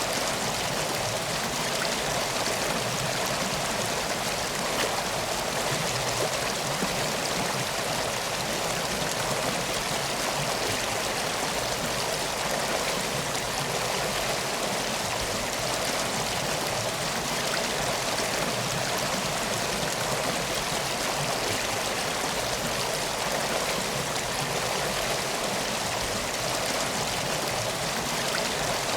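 Steady rush of a flowing river, a continuous even wash of water without pauses.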